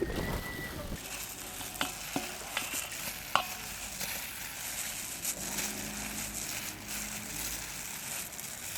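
Spoon stirring paneer in a mixing bowl for the spring-roll filling, with a few light clicks of the spoon against the bowl over a steady hiss.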